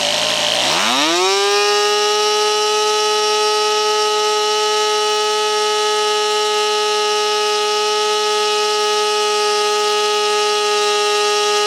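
Custom 22 cc stroked two-stroke model-helicopter engine driving a propeller on a test stand. It revs up sharply about half a second in, then holds a steady high-pitched buzz at full throttle, running at its peak RPM.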